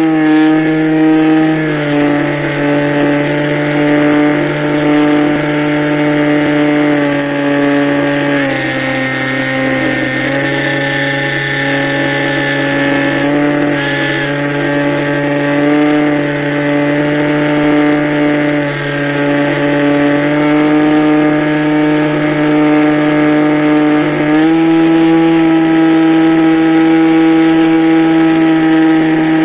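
Radio-controlled model airplane's motor and propeller running with a steady buzzing drone; the pitch steps down about 2 s in and again about 8 s in, then rises back near the end as the throttle is changed.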